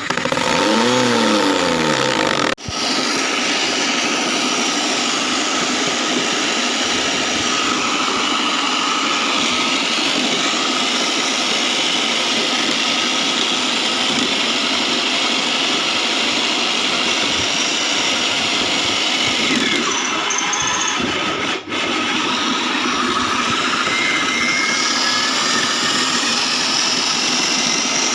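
Homemade foam-shredding machine running steadily, a loud even whirring noise. Its pitch wavers during the first couple of seconds, and the sound drops out for an instant twice.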